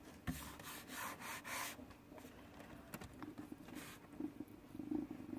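Faint rubbing and scuffing noises in a few short strokes over the first two seconds, then a faint low steady hum.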